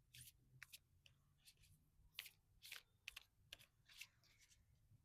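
Near silence broken by about ten faint, short, irregular clicks and rustles.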